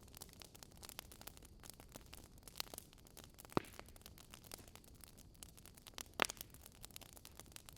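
Wood fire in a fireplace crackling: a dense run of small crackles over a faint hiss, with two louder pops, one about halfway through and one later on.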